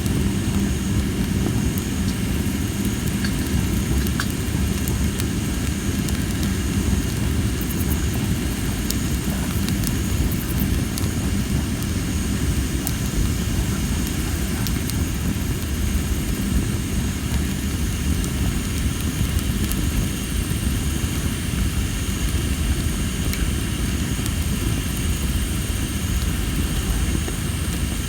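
Tree-of-heaven (ailanthus) firewood burning in a fire pit, with sparse faint crackles over a steady low rumble. Insects chirp steadily in the background in a high, gently pulsing trill.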